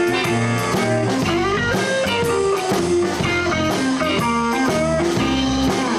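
Live blues band playing an instrumental break: electric guitar lead lines with sliding notes over bass guitar and a steady drum beat.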